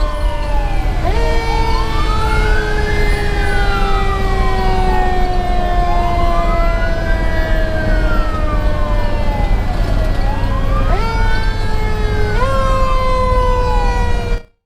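Federal Q2B mechanical siren on a 2010 Pierce Velocity fire engine wailing, winding up and coasting down about three times, over the rumble of the engine on the road. The sound cuts off suddenly near the end.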